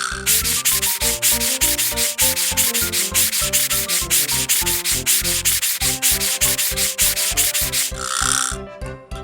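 Rhythmic cartoon scrubbing sound effect, about four rubbing strokes a second, over bouncy background music, with a brief hiss near the end.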